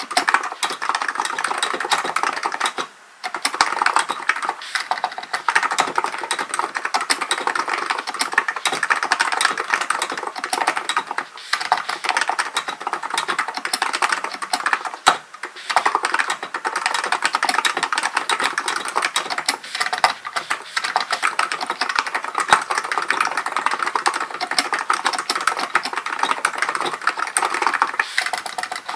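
Continuous fast typing on a Hansung GK898B electro-capacitive keyboard: a dense run of keystrokes, with a brief pause about three seconds in and another about halfway through.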